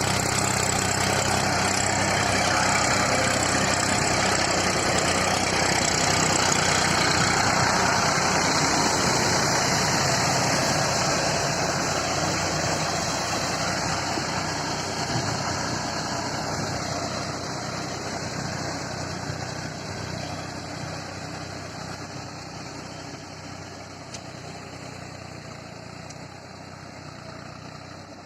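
New Holland 3230 tractor's three-cylinder diesel engine running steadily while working a rotavator. It grows gradually fainter over the second half.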